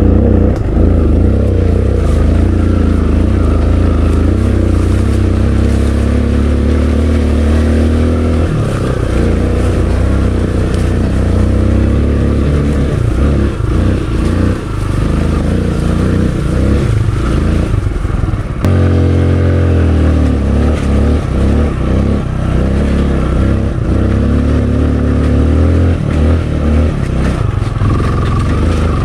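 Kawasaki KLX 150L dirt bike's single-cylinder four-stroke engine running under way, its note easing off about eight seconds in and climbing again as it revs up a little past halfway.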